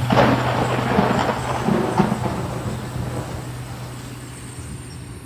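Thunder-and-rain sound effect closing the track: a rumbling wash of noise over a held low bass note, both fading away gradually.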